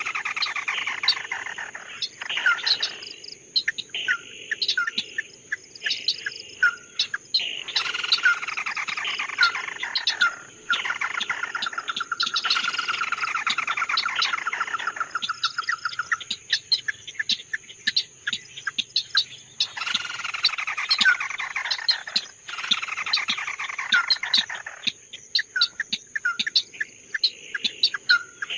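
Songbird called 'chim mắt đỏ' in Vietnamese singing over and over: long trilled phrases that slide down in pitch, each lasting a few seconds, alternating with short sharp chirps. A steady faint high-pitched whine runs behind.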